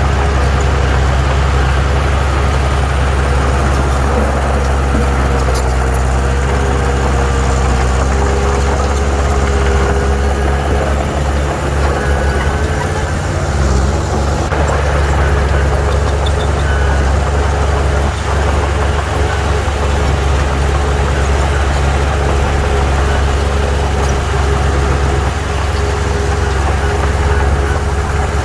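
Heavy diesel engines of earthmoving machines running steadily: a deep, constant engine drone with fainter tones above it that drift slightly up and down.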